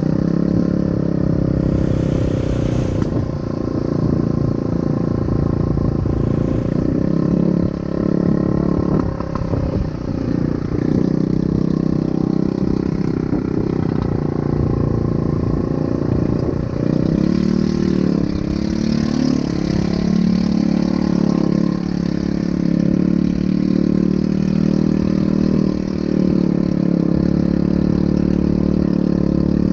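ATV engine running continuously, its pitch wavering up and down a little past the middle.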